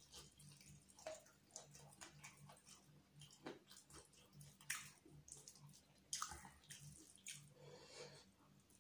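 Faint, wet chewing and lip-smacking of a person eating biryani by hand, made of scattered sharp clicks and crackles, the loudest near the middle and about six seconds in. A faint steady low hum lies underneath.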